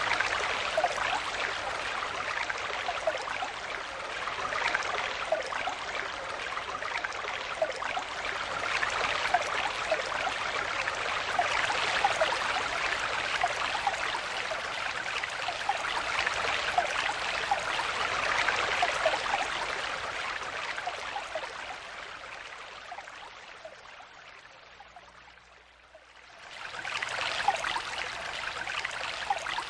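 Stream water flowing and babbling over stones, a steady rush dotted with small bubbling plinks. About three-quarters of the way through it fades down almost to nothing, then swells back to full level a second later.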